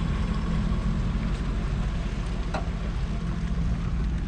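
Pickup truck engine running steadily at low speed, a low, even drone, with a few faint clicks over it.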